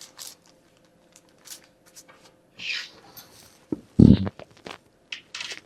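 Plastic parts of a bird feeder kit being handled and fitted together: scattered light clicks and rustles, with one heavier knock about four seconds in.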